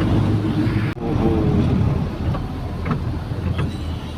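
Truck engine running steadily, heard from inside the cab while driving, with a few light knocks and rattles from the cab. The sound breaks off for an instant about a second in.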